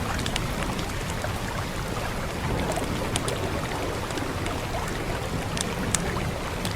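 Wood fire crackling, with a few sharp pops, over a steady hiss and low rumble of rain.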